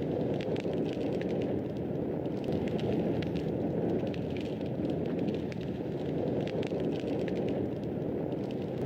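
Wood fire burning in a fireplace: a steady low rush of flame with frequent small, sharp crackles and pops.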